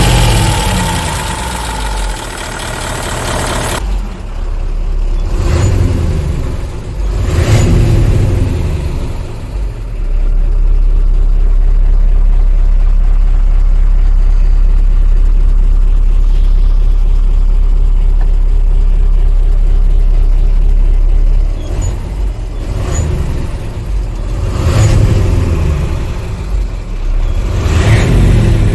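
Hino Super Dolphin truck's F20C V8 diesel engine being revved in short swells, settling into a long steady low drone for about ten seconds in the middle, then revved again twice near the end.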